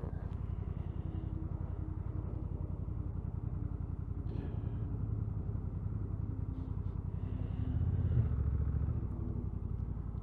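Honda NT1100 DCT's parallel-twin engine idling steadily while the bike waits at a junction, with a louder low rumble swelling briefly about eight seconds in.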